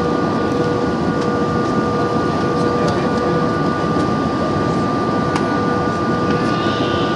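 Steady cabin noise inside an Airbus A320 in flight: the rush of engines and airflow, with a thin steady whine running through it.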